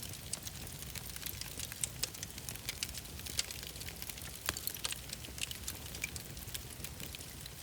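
Wood fire crackling in a fireplace: many quick irregular pops and snaps over a low steady rumble of the flames.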